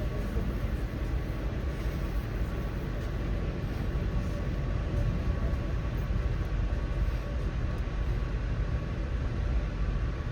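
Steady low rumble of a moving Amtrak passenger train heard from on board, with a faint steady tone above it.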